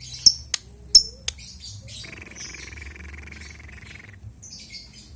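Lovebird calling: a few sharp, high chirps, then a buzzy chatter lasting about two seconds, then more high chirps near the end.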